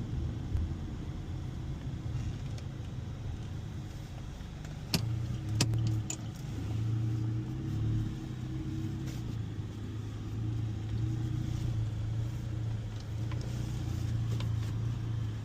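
Car engine running with a steady low hum, heard from inside the car. About five seconds in come two sharp clicks close together, and the hum is steadier and stronger after them.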